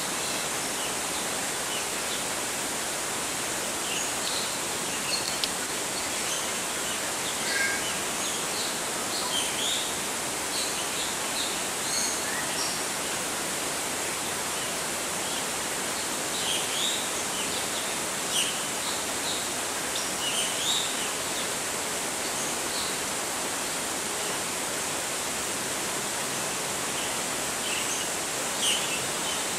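Steady rushing background noise, like running water, with scattered short high chirps from small birds throughout.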